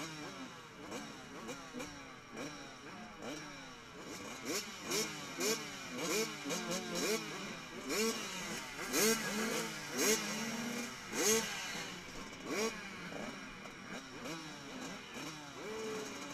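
Several motocross bikes revving through their gears at once, their engine notes repeatedly rising and dropping as they accelerate and shift. They grow louder partway through, peaking twice, then ease off.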